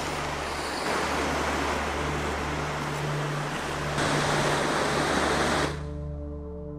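Sea surf breaking and washing over rocks, a dense rushing noise that grows louder about four seconds in and then cuts off abruptly. A soft, steady ambient music drone runs underneath.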